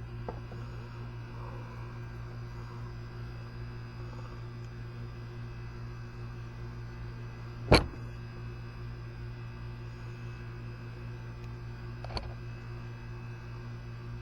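A steady hum, with one sharp knock about halfway through and a lighter click near the end, as of a tool or part handled on a hard surface during engine work.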